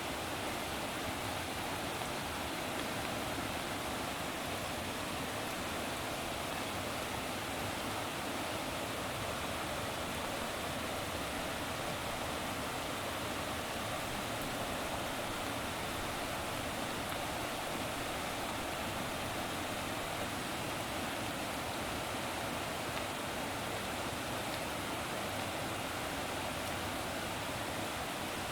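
Running water: a steady, even rushing that does not change.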